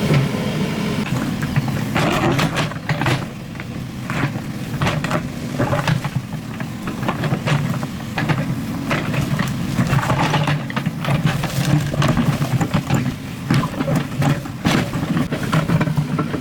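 Excavator diesel engine running under load, with irregular knocks, clanks and scrapes as it digs earth and rock.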